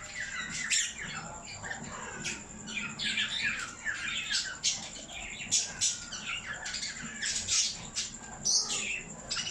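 Lovebirds giving a dense run of short, sharp, high-pitched squawks in quick succession.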